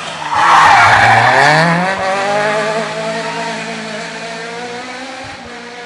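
Rally car passing close at speed: a sudden loud rush of noise about a third of a second in, then its engine note climbs as it accelerates away and slowly fades.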